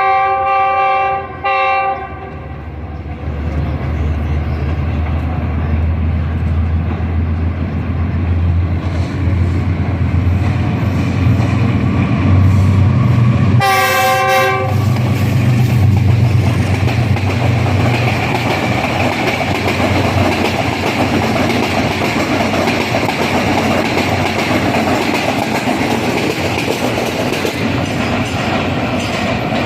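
Passenger train passing through a station: the locomotive's horn sounds two short blasts, then the low rumble of the diesel engine goes by. About halfway through the horn sounds once more, and then the coaches clatter past with a steady clickety-clack over the rail joints.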